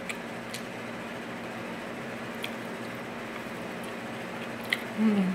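Steady electric fan noise with a faint hum, under a few light clicks of a fork against a plate while eating spaghetti. Near the end comes a short, falling hummed 'mm' from the eater.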